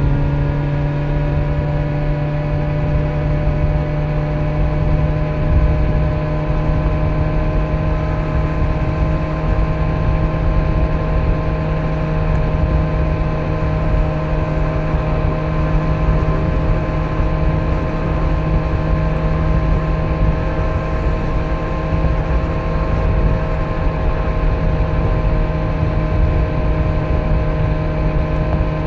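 Kawasaki Z900's inline-four engine with stock exhaust at a steady cruise, its note climbing slightly at the start and then holding even. A low rumble of wind and road noise runs underneath.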